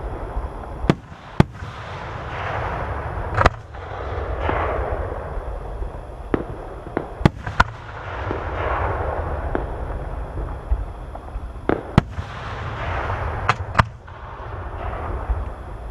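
Aerial fireworks display: shells bursting with sharp booms and bangs every second or two, each followed by a long crackling, hissing swell, over a constant low rumble.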